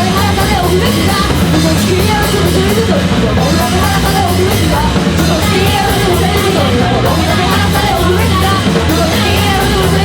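Punk rock band playing loud and fast: distorted guitars, bass and drum kit, with singing over them.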